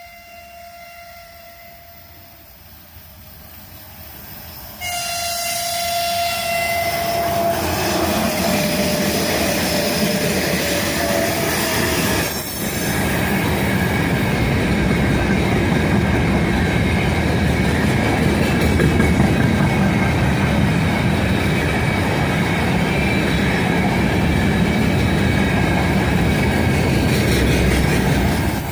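3ES5K Ermak electric locomotive sounding its horn: a faint short blast at the start, then a loud blast about five seconds in that lasts several seconds and drops in pitch as the locomotive passes. The train then goes by with a loud steady rumble of wheels on rail and a thin high wheel squeal from the curve.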